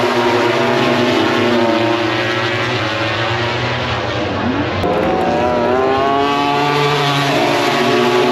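MotoGP racing motorcycles, 1000 cc four-stroke prototypes, running at high revs as they race past on track. About four to five seconds in, the engine pitch drops and then climbs sharply as a bike accelerates.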